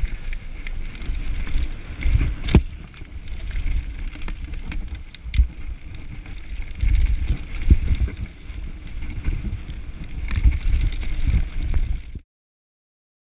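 Mountain bike going down a rough downhill trail: uneven rumble from the tyres and the terrain, with rattling clicks and a few sharp knocks. The sound cuts out completely about twelve seconds in.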